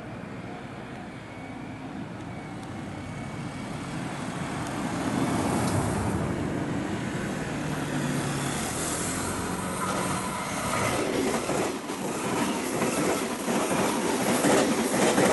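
JR West 283 series electric express train approaching and passing close by, its running noise growing steadily louder. In the last few seconds the wheels clack rhythmically over the rail joints as the cars go past.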